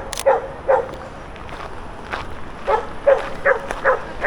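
A dog barking repeatedly in short, irregular barks.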